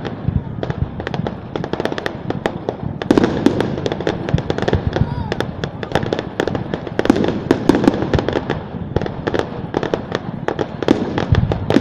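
Fireworks display going off in rapid succession: a continuous run of sharp bangs and crackles, many per second, with no pause.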